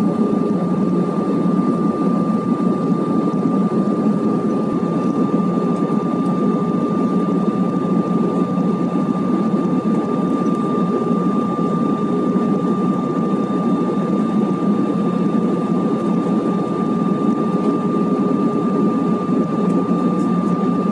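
Airbus A320 passenger-cabin noise: steady engine and airflow noise with a constant high tone over it.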